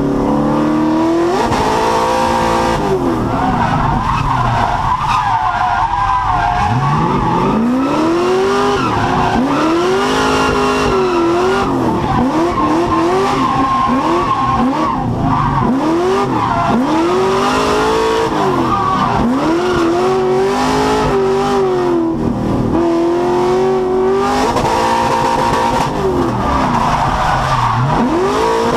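A drift car's engine revving up and falling back again and again as it slides, with tyre squeal running underneath.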